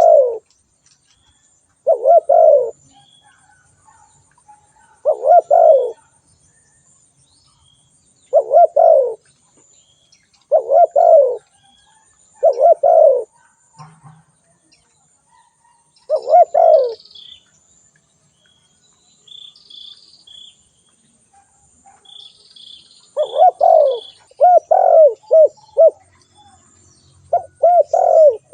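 Spotted dove cooing: short low coo phrases repeated every two to three seconds, with a quicker run of several coos in the last few seconds. Faint high chirps from a small bird come in a few times in the second half.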